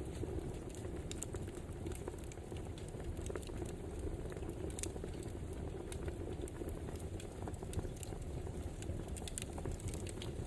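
Wood fire crackling: a steady low rush with many irregular small snaps and pops.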